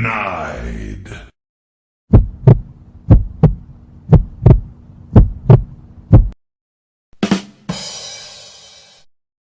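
Heartbeat sound effect: five double thumps, about one pair a second, over a low steady hum. Before it a short spoken "Denied" clip, and near the end a brief knock followed by a hiss that fades away.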